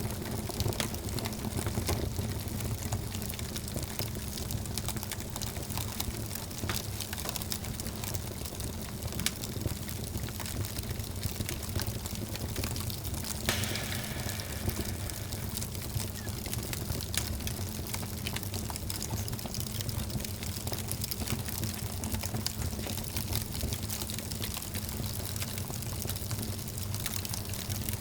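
Wood fire burning in a fireplace: steady crackling with many small pops over a low, steady rumble, and one louder crackle about halfway through.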